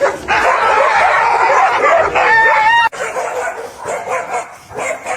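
A dog barking and yipping loudly, with a short high whine near the end of the burst. The burst cuts off suddenly about three seconds in, followed by softer intermittent barks.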